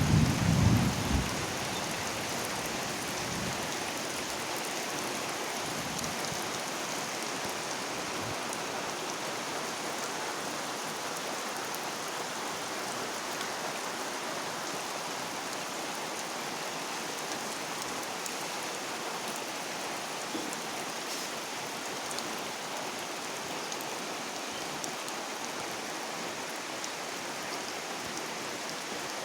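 Steady rain falling, an even hiss of rain on surfaces. A brief, louder low rumble comes in the first second or so.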